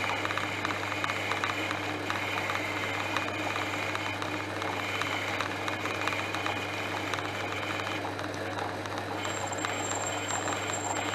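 Portass Model S lathe running under power, turning a round metal bar: a steady motor hum with a held whine. The whine stops about eight seconds in, and a thin high-pitched tone starts about a second later.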